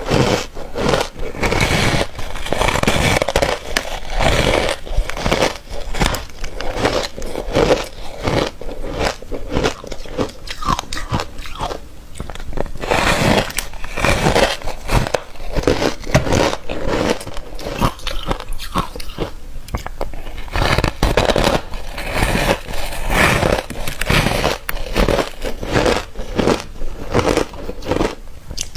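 A person biting into ice close to the microphone: a long run of quick, irregular crunching bites.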